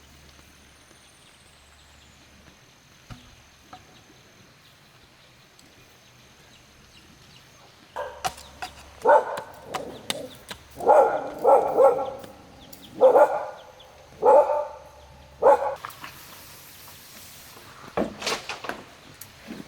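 A dog barking: a run of short barks about a second apart, starting after several seconds of quiet and stopping some eight seconds later, followed by a single knock.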